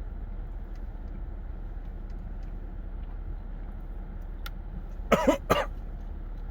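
A person makes two short, loud throat sounds about half a second apart, about five seconds in, over a steady low hum.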